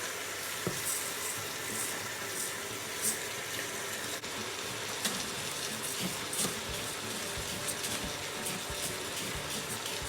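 Basmati rice frying in oil in a pan: a steady sizzle with scattered small crackles.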